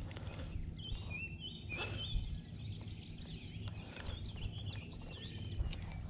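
Songbirds chirping and warbling in quick, overlapping short calls over a low steady rumble.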